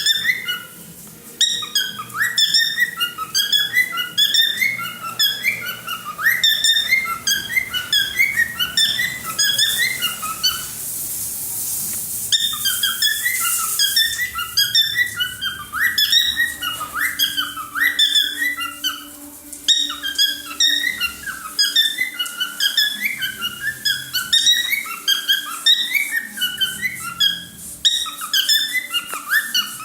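Cockatiel whistling its song: a long run of short, clear whistled notes that swoop up and down in a repeating phrase. About ten seconds in, a few seconds of hissy noise break into the song.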